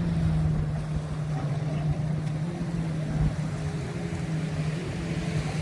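Street ambience with a steady low engine hum running under general traffic noise.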